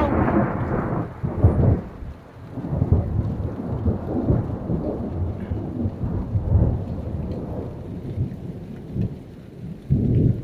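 Thunder rolling and rumbling over steady heavy rain, swelling in several low peaks: about one and a half seconds in, around three seconds, around six and a half seconds, and again near the end.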